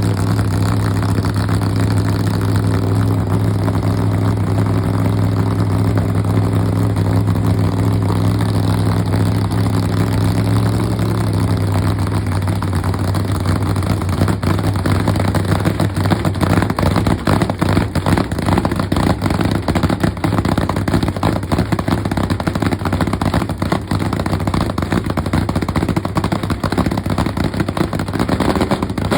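Hemi engine running, first idling with a steady low hum. About eleven seconds in, the even note gives way to a rougher, uneven sound whose loudness rises and falls.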